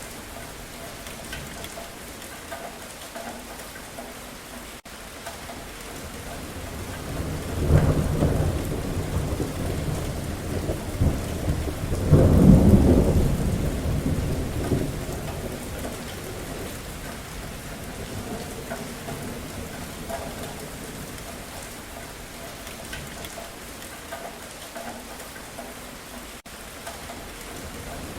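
Steady rain falling, with a long rumble of thunder that swells about a quarter of the way in, peaks twice and slowly fades away.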